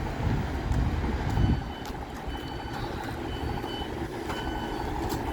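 Low steady rumble of a Class 150 diesel multiple unit, swelling briefly at the start, with short high electronic beeps sounding now and then.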